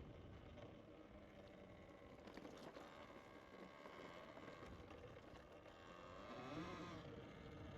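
Near silence: a faint, even low rumble of outdoor background noise, with a faint wavering tone about six to seven seconds in.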